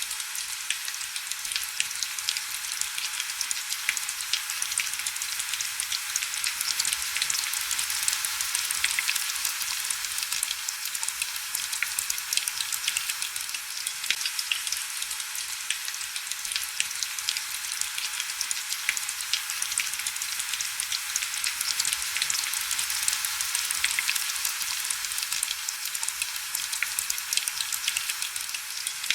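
Heavy rain falling steadily: a dense, even hiss full of small, sharp drop ticks, with almost no low rumble.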